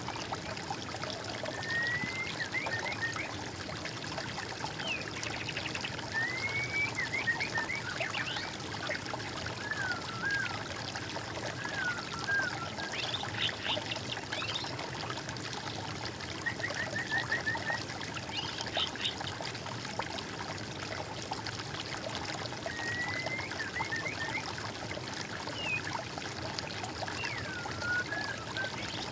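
Water trickling steadily, with songbirds singing short rising, chirping phrases every few seconds over it.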